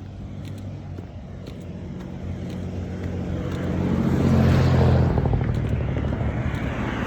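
A car driving past: its engine drone and tyre noise grow louder, are loudest about four to five seconds in, then start to fade.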